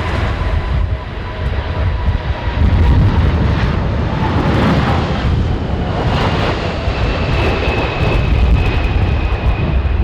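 Jet airliner passing low on final approach: engine rumble with a high whine that appears about halfway through and slowly slides down in pitch. Strong gusty wind buffets the microphone.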